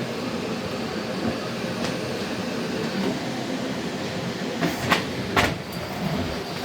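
Miele CX1 Blizzard bagless vacuum cleaner running steadily while being used, with two sharp clicks or knocks about five seconds in.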